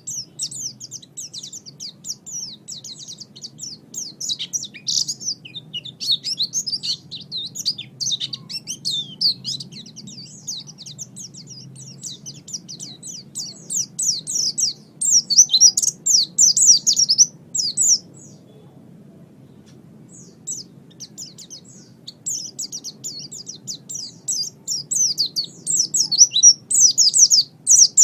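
A white-eye (pleci) singing a fast, high twittering song of rapid chirps and trills. It pauses for about two seconds two-thirds of the way through, then starts again. A faint low hum runs underneath.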